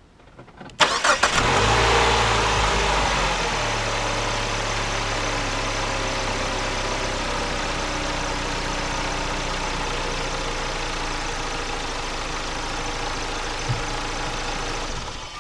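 2009 Chrysler PT Cruiser's 2.4-litre four-cylinder engine cranks briefly and catches a little under a second in, on its first start after new spark plugs are fitted. It runs fast for a couple of seconds, settles to a steady idle, then shuts off near the end.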